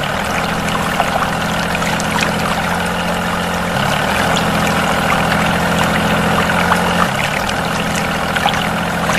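Water pouring and splashing steadily, over a steady low hum that shifts pitch a few times.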